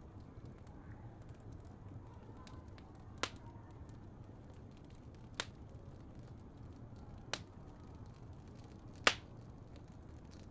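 Fireplace fire burning with a steady low rumble and hiss, and four sharp crackling pops a couple of seconds apart, the last the loudest.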